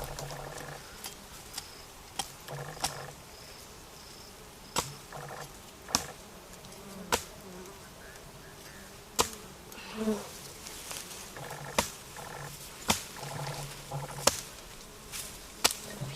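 A low insect-like buzz that comes and goes in short stretches, over about a dozen sharp knocks or taps at irregular intervals.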